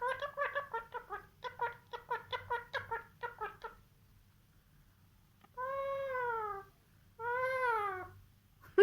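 Pet bird calling: a quick run of short chattering notes for nearly four seconds, then, after a pause, two long calls about a second each that rise and fall in pitch.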